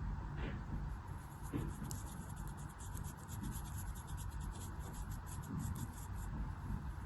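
Crisp, crunchy scraping of a tool through a soft craft material: a dense run of fine crackles starting about a second in and stopping near the end.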